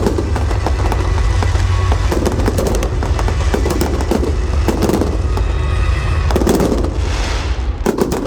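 Fireworks display: a dense, continuous barrage of bangs and crackles over a deep rumble of booms.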